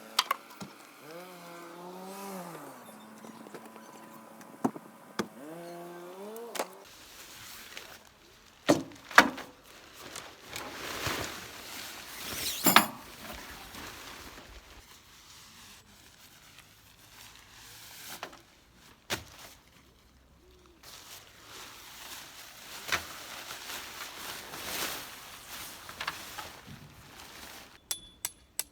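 Camping gear being handled while a backpacking tarp is pitched: irregular knocks and thunks with rustling in between, the loudest knocks coming about nine and thirteen seconds in. A wavering pitched, voice-like sound runs through the first several seconds, and a quick run of regular clicks comes at the very end.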